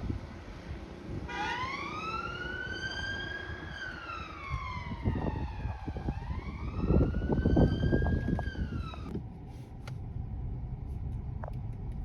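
Emergency vehicle siren on a slow wail: it rises, falls and rises again, then cuts off suddenly about nine seconds in. Under it runs a low rumble that swells loudest in the middle.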